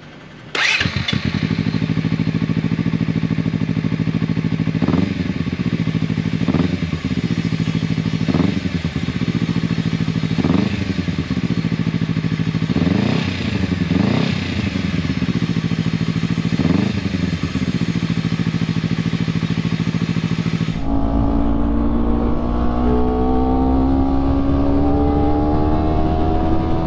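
Honda CBR250RR with an aftermarket muffler: the engine starts and idles, and the throttle is blipped about seven times, each rev rising and falling back. About 21 s in, the sound changes abruptly to a steadier engine note whose pitch glides slowly.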